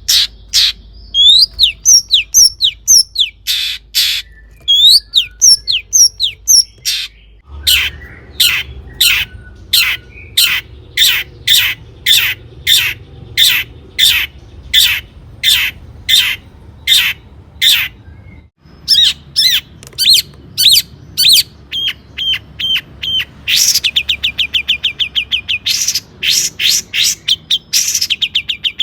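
Long-tailed shrike singing: a run of loud, harsh repeated calls about two a second, with whistled slurred notes in the first few seconds and a fast rattling trill near the end. The recording changes abruptly twice, as if spliced.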